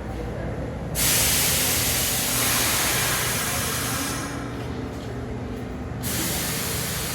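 Loud air hiss from an R46 subway train's pneumatic system over a steady low hum. The hiss starts suddenly about a second in, lasts about three seconds and cuts off, then starts again near the end.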